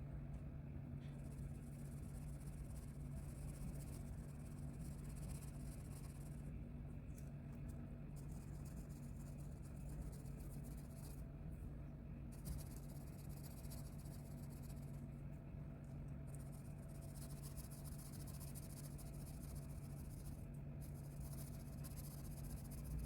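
A colouring tool scratching back and forth on paper in spells of a few seconds, with short pauses between them, over a steady low hum.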